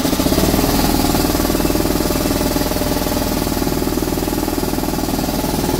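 Electric air compressor running steadily just after starting up, with a fast, even pulsing beat.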